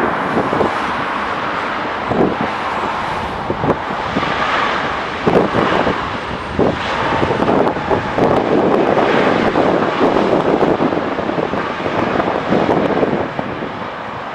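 Jet engine noise from a landing Boeing 777-200ER: a loud, steady rushing sound with frequent short gusts of wind buffeting the microphone.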